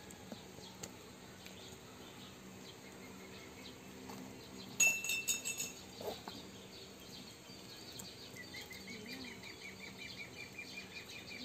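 Birds chirping faintly over low background noise. About five seconds in comes a short, sharp burst of high chirps, the loudest moment, and from about eight seconds on a fast repeated trill.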